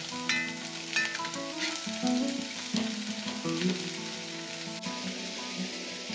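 Food sizzling as it fries in a pan, with steady background music playing underneath.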